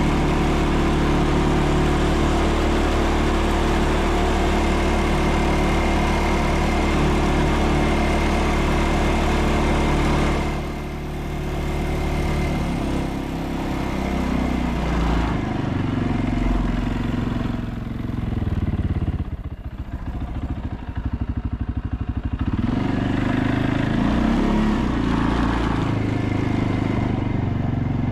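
ATV engine running steadily under way, then easing off about ten seconds in, with engine speed rising and falling and dropping low for a few seconds past the middle before picking up again.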